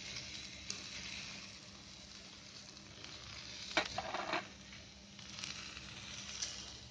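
Sweet potato sticks in ghee sizzling faintly in a kadhai, with a few light clicks and a short clatter of utensils about four seconds in.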